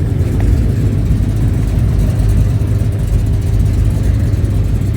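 Vehicle engines running steadily nearby, a low continuous rumble.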